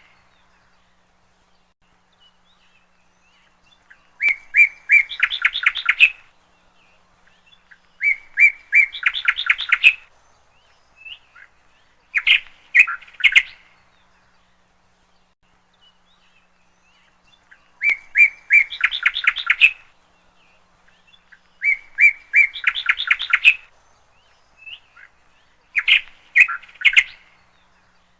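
A songbird singing in repeated short phrases, one every four seconds or so. Each phrase is a few separate notes followed by a fast run of rapid notes, with quiet gaps between phrases.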